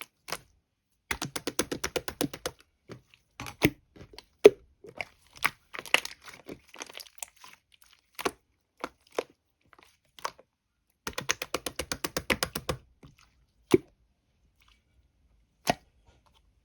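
Close-miked crunching and chewing of a blueberry jelly: two quick runs of crisp crackles with single sharp cracks between them.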